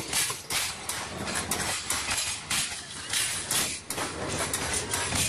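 Passenger train rolling slowly past at close range, its coach wheels and couplings clattering and clanking irregularly on the track.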